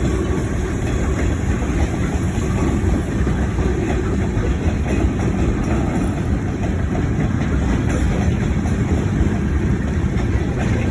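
Steady rumbling noise of a vehicle in motion, heaviest in the low range, with no distinct knocks or changes.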